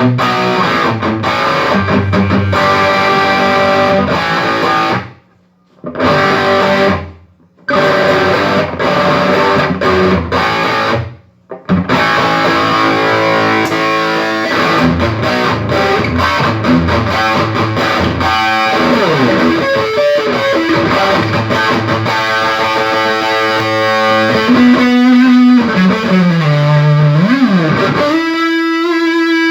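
Electric guitar played through a freshly repaired Peavey Triple XXX tube amp, after bad preamp capacitors were replaced and the amp was biased: riffs and chords with a few sudden full stops in the first half, then a note bent down and back up and a held note near the end.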